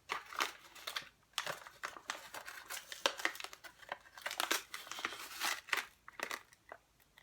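Crinkling and rustling of a coffee bag as ground coffee is scooped out, a dense run of irregular small crackles and clicks.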